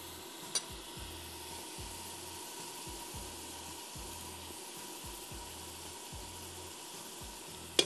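Onion and tomato masala frying in oil in a cooking pot, a steady sizzle. There is a light click about half a second in and a sharper click near the end.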